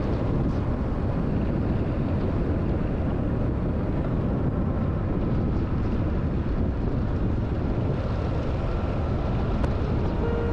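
Motorcycle underway on the road: steady engine and wind noise.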